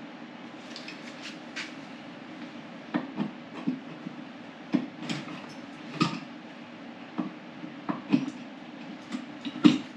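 Scattered clicks, taps and knocks of hard parts as a motorcycle seat backrest is worked into its mount on the seat, the loudest knocks near the end, over a steady low hum.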